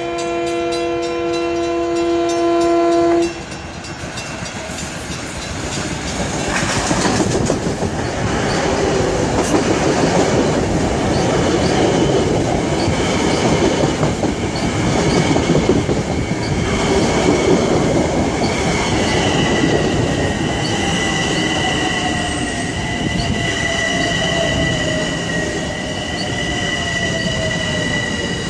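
A Long Island Rail Road electric passenger train sounds a chorded horn for about three seconds, then rolls past along the platform with a loud rush of wheels on rail. From about twenty seconds in, a steady high squeal and a whine falling in pitch come in as the train slows.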